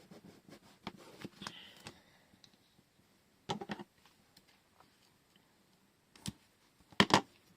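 Scattered light clicks and taps of small objects being handled on a desk, with a short cluster about three and a half seconds in and two louder sharp knocks near the end.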